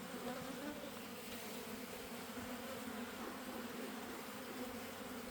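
Many honey bees buzzing steadily around an opened hive, a continuous hum that wavers slightly in pitch.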